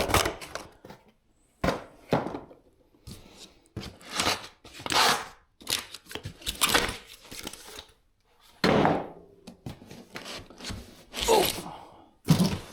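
Packaging being handled while parts are unboxed: a dozen or so irregular rustles, scrapes and thunks of cardboard and plastic, with short pauses between.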